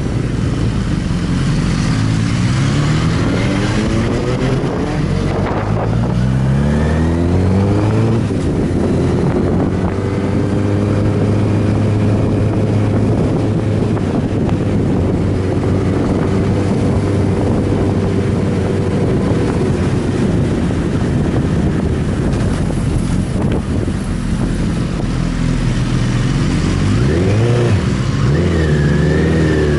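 Inline-four sport motorcycle engine accelerating, its pitch climbing for the first several seconds, then holding steady at cruising speed. Heavy wind noise is on the microphone throughout. Near the end the revs rise and fall again.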